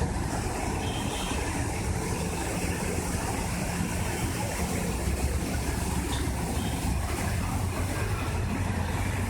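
A vehicle's engine running steadily, its low hum under a constant wash of noise.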